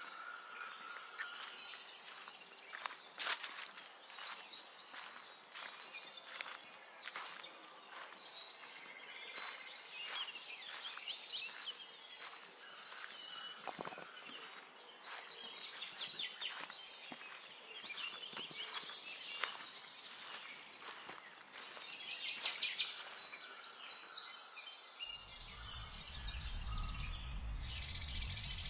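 Several small songbirds chirping and trilling together in a busy, overlapping chorus. A low steady rumble joins near the end.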